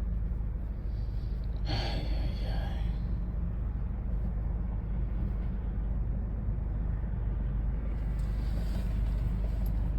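Audi A4 B7's 2.0-litre turbocharged four-cylinder engine idling with a steady low rumble, its idle rough and close to stalling, a fault the owner cannot explain. A brief breathy hiss sounds about two seconds in.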